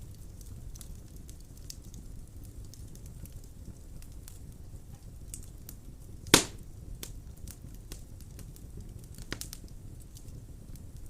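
Wood burning in a fireplace: a steady low rumble of flames with many small crackles, and one loud pop about six seconds in.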